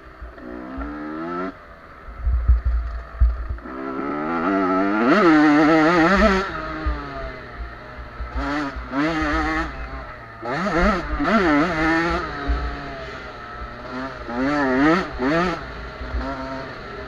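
Small two-stroke motocross bikes revving hard and easing off, the engine pitch rising and falling again and again as they ride the track.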